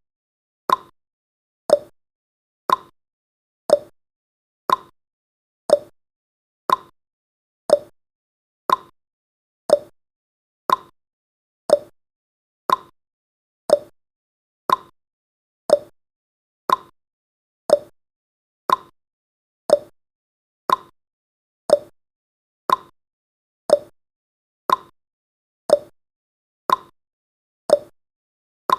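Clock tick-tock sound effect: short, sharp ticks about two a second, alternating a higher and a lower tick, keeping an even beat.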